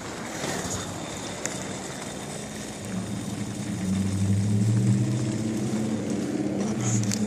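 A motor vehicle's engine hums steadily at a low pitch. It grows louder about halfway through and eases off toward the end.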